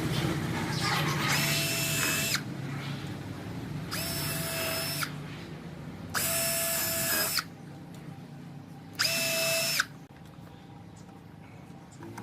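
Electric drill run in four short bursts of about a second each, a steady motor whine in each burst.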